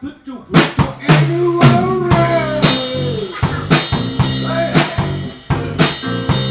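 A live band playing a blues-rock number: a few drum hits, then the full band comes in about a second in, with drum kit, rim shots and guitar playing bending lead notes.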